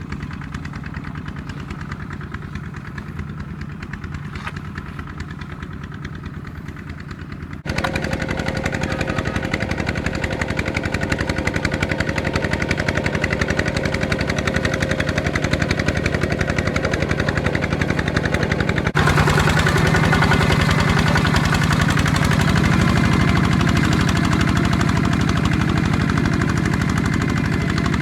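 ZT 155 tractor engine running steadily with a rapid, even knocking beat. The sound jumps abruptly louder about eight seconds in, and again with a deeper hum about nineteen seconds in.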